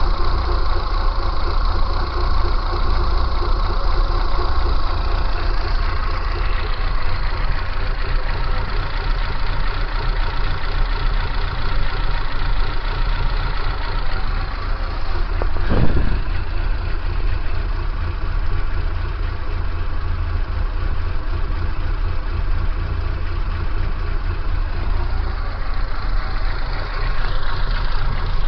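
Kia Pride's engine idling steadily, with a brief louder surge about halfway through. The owner hears abnormal jerking (secousses) at idle.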